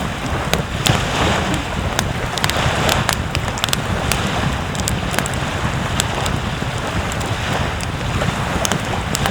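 Steady rush of ocean surf and wind, with wind buffeting the microphone. Frequent sharp, irregular crackles sound over it.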